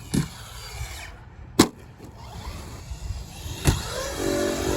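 Electric motor of a radio-controlled truck whining as it runs and jumps, with three sharp knocks as it hits the ground. A steadier pitched whine comes in near the end.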